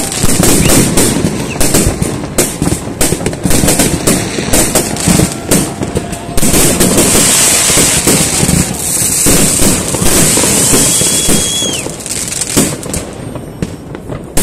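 Many fireworks going off at once: a dense, rapid string of bangs and crackles. A steady crackling hiss joins about halfway through, and the barrage thins a little near the end.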